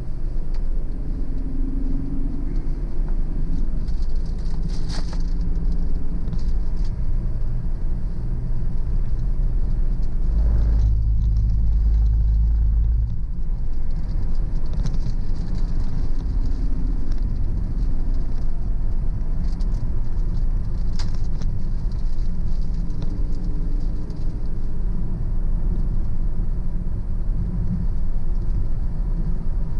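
Car driving on a road: steady low rumble of tyres and engine, growing heavier for a couple of seconds about a third of the way in.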